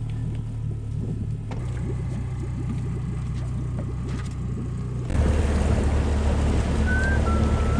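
A motor running steadily with a low hum. About five seconds in, the sound cuts abruptly to a louder, rougher engine with rushing noise, typical of a small boat motor under way.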